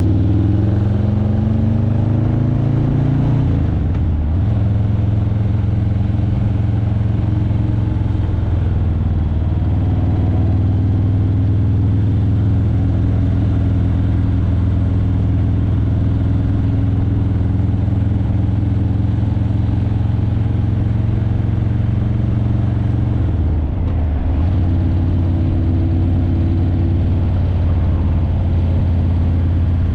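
Harley-Davidson Breakout 117's Milwaukee-Eight V-twin running through Vance & Hines Eliminator 300 slip-on mufflers while the bike rides slowly. The engine note falls over the first few seconds, then dips briefly and changes pitch twice, about four seconds in and again near the end.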